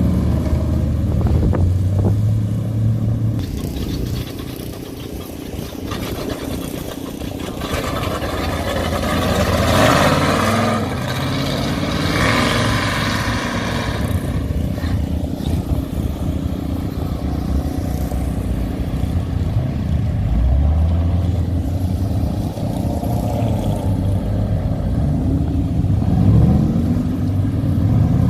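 Hot rods and show cars driving past one after another, engines running, with a louder pass about ten seconds in and an engine revving up and down near the end.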